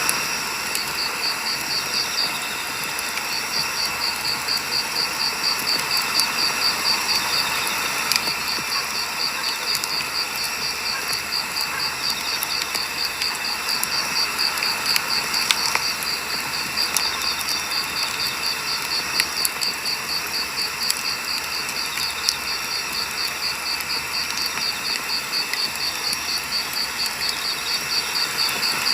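Firewood burning in a campfire: a steady hiss with scattered sharp crackles and pops from the wood. A fast, high, rhythmic chirping runs underneath, pausing briefly twice near the start.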